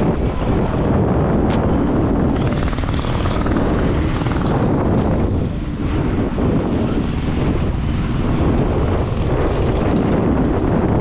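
Mini bike engines running steadily and loudly, mixed with rushing wind and road noise.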